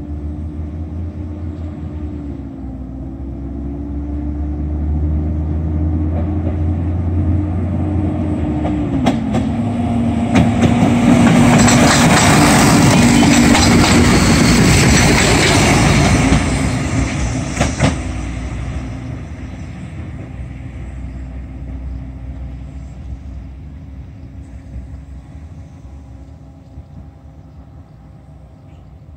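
Diesel multiple unit approaching and passing close by. Its engine drone drops in pitch as it passes, wheels clatter on the rails at the loudest point, and the sound fades as it moves away.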